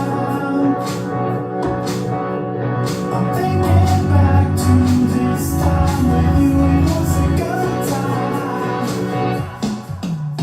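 A song with singing, a heavy bass line and a steady beat, played loud through a PA of two Presonus Air15 powered speakers and a Presonus Air15s subwoofer being sound-checked. The music thins out briefly near the end.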